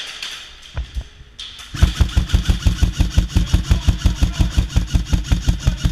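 Airsoft rifle firing: a couple of single shots about a second in, then a long full-auto burst of about ten shots a second starting near two seconds in.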